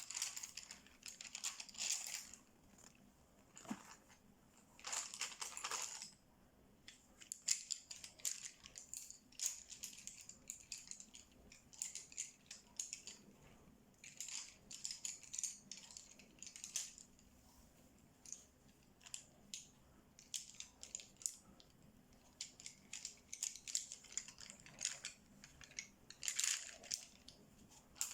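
Colouring strokes scratching on paper in a colouring book, in quick bursts of back-and-forth strokes with small clicks and short pauses between them.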